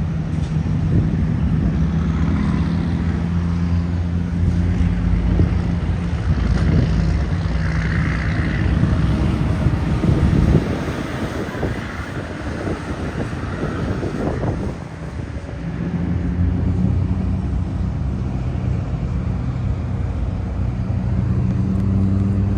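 Steady engine hum mixed with road traffic noise. The hum drops away about ten seconds in and returns a few seconds later.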